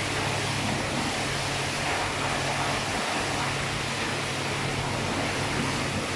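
Steady rushing of water spray hitting a Pajero's body during a car wash, heard from inside the cabin, with a low steady hum underneath.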